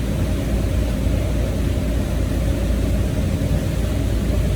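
Motor boat's engines running steadily under way: a constant low drone with an even hiss over it.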